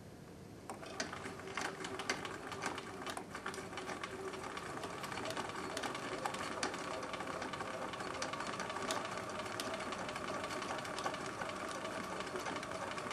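Electric sewing machine running steadily, top stitching a wavy decorative stitch through fleece and batting, with rapid needle clicks. It starts up about a second in.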